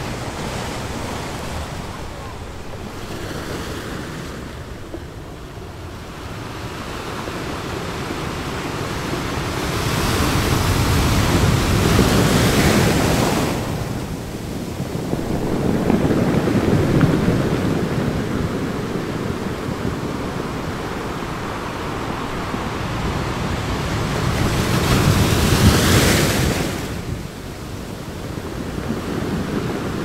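Sea waves breaking and washing over boulders at the water's edge: a continuous rush of surf that swells into three louder surges, the first and last dropping off sharply.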